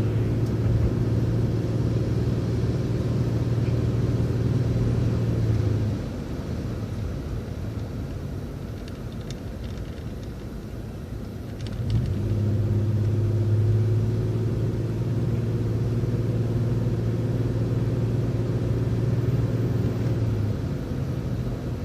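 City transit bus's drivetrain running with a steady low drone, which drops away for about six seconds midway as the bus eases off, then comes back as it pulls again.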